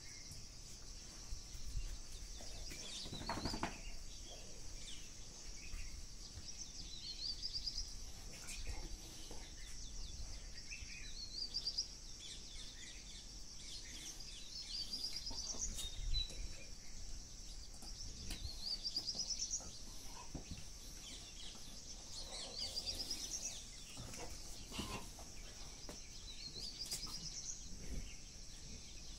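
A bird singing a short, quick trill that rises in pitch, repeated about eight times every few seconds, over a steady high-pitched hiss.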